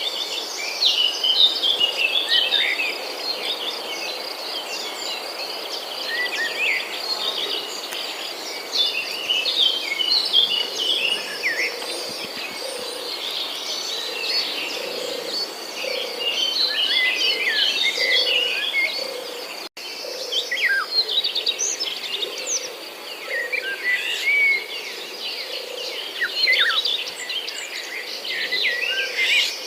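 Many small birds calling and twittering together in short chirps over a steady high thin tone, with soft footsteps about once a second; the sound briefly cuts out about two-thirds of the way through.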